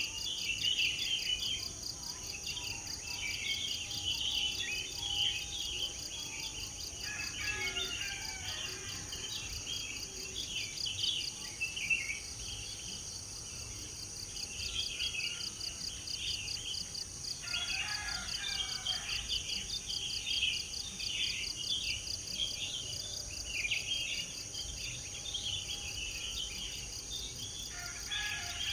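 Small birds chirping and twittering in quick, overlapping phrases, over a steady high trill of insects that runs without a break.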